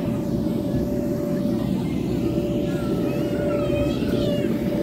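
Steady drone of aircraft engines overhead: a constant low rumble with one held tone through it. Faint wavering high-pitched sounds come in over it near the end.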